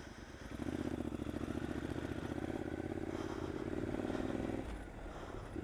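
Motorcycle's parallel-twin engine, the 2015 Triumph Scrambler's, pulling steadily along a dirt lane with a low pulsing exhaust note. It eases off near the end.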